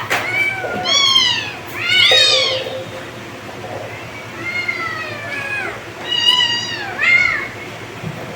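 Kittens meowing again and again in high, thin calls that rise and fall in pitch, about six meows, one of them longer and drawn out about five seconds in.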